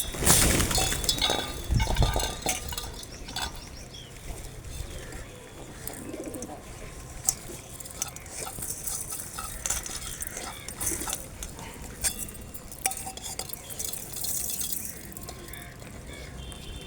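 Birds gathered at scattered grain: scattered chirps and many small clicks and taps. There is a louder rustling, knocking stretch in the first two seconds.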